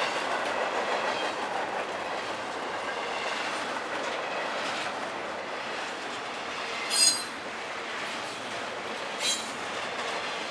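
Double-stack container freight train rolling by, a steady rumble and clatter of wheels on rail. About seven and nine seconds in come two short, high-pitched wheel squeals, the first the louder.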